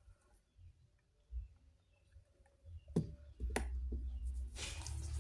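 Handling noise close to the microphone: a few faint taps, two sharp clicks about three seconds in, then a low rumble and a rustling hiss near the end.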